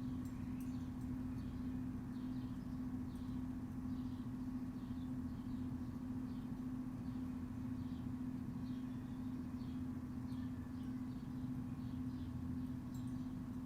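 Backyard ambience: a steady low hum with a constant pitched tone underneath, and a short high chirp repeating about twice a second.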